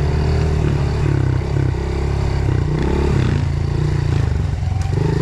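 Dirt bike engine running on a trail ride, its pitch rising and falling several times as the throttle opens and closes.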